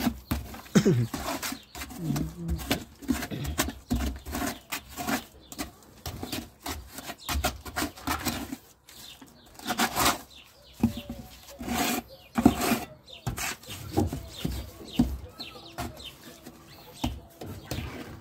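Irregular scraping and knocking of hand masonry work as mortar and gravel are spread over the top of a brick barbecue oven.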